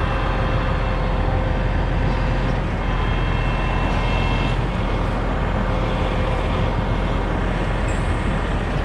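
Heavy truck's diesel engine running steadily at idle.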